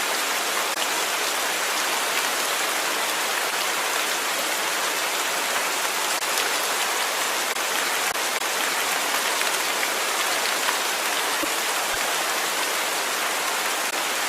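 Steady rainfall, an even hiss of rain pattering on a surface with faint scattered drop ticks.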